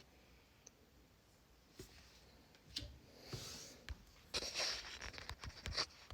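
Trading cards being handled and flipped through, faint. There are a few light clicks at first, then scratchy rustling and small taps of card stock from about halfway in.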